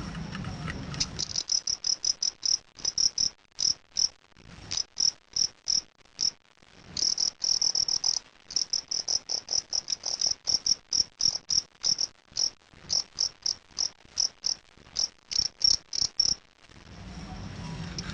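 A fighting cricket (jangkrik aduan) chirping: short, high-pitched chirps in quick runs, with a few brief pauses. It starts about a second in and stops shortly before the end.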